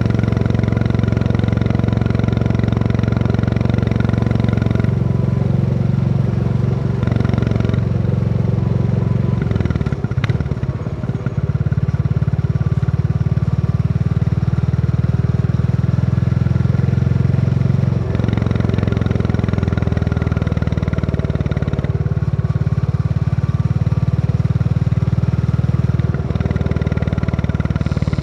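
Royal Enfield Classic 350's single-cylinder engine thumping steadily under way. Its note shifts a few times as the throttle changes, and it dips briefly about ten seconds in before picking back up.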